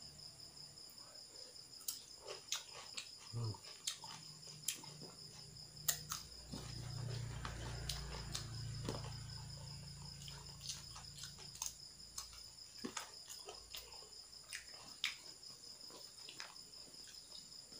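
Close-up eating sounds: irregular small clicks and smacks of chewing and handling food, over a cricket's steady high trill.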